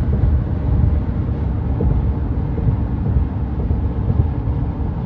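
Steady road and engine rumble inside a moving vehicle, low and even throughout.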